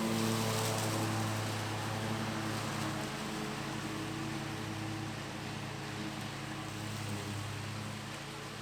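Bad Boy Maverick zero-turn mower's engine running at a steady pitch, getting slightly quieter toward the end.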